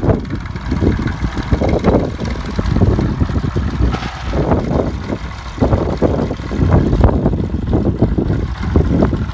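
Allis-Chalmers tractor engine idling.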